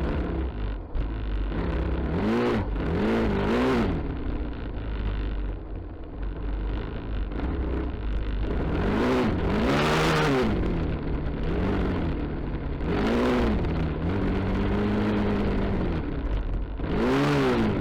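Suzuki DR-Z400SM single-cylinder four-stroke engine revving up and dropping back over and over as the bike is ridden over rough ground, holding a steadier pitch for a couple of seconds near the end, with wind rumble on the microphone.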